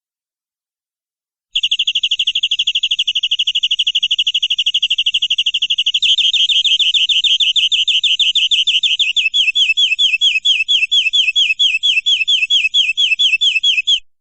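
Domestic canary singing a long, loud, rapid trill that begins about a second and a half in. About six seconds in it changes to slower, wider sweeping notes, and it stops just before the end.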